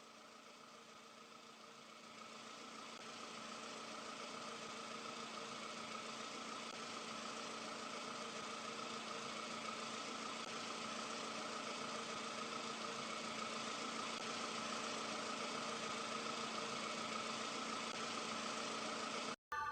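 Engine idling steadily, faint: it fades in about two seconds in, grows slowly louder, and cuts off abruptly near the end.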